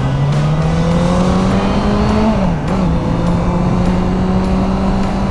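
Motorcycle engine pulling away, its pitch rising over the first two seconds, dipping briefly about two and a half seconds in, then holding steady at cruise, under steady wind noise.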